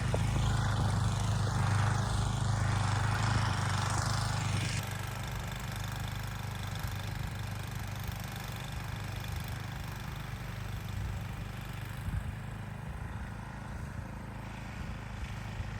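An engine running steadily at idle, with a hiss over it that cuts off about five seconds in.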